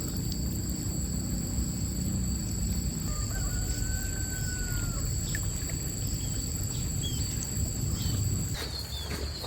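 Stream water rushing steadily, with a constant high insect drone and a bird's drawn-out call about three seconds in, plus a few short chirps.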